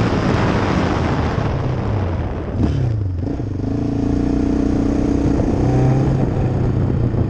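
Yamaha Raptor 700 quad's single-cylinder four-stroke engine running under throttle. The revs fall away about two and a half seconds in, then pick up again and hold a fairly steady pitch.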